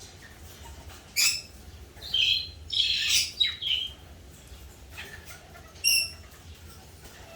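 Eclectus parrot squawking in short, high-pitched calls: one about a second in, a run of several calls between two and four seconds in, and one brief call near six seconds.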